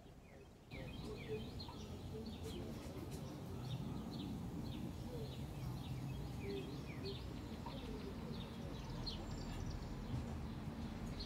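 Small birds chirping in quick, short down-slurred notes, many in a row, over a steady low rumble of outdoor background noise that comes up suddenly less than a second in.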